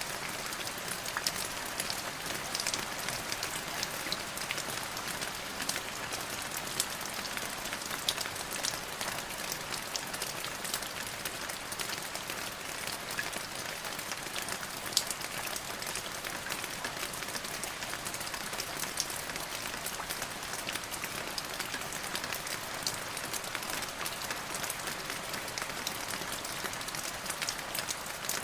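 Steady rain falling, a continuous hiss dotted with many sharp individual drop ticks.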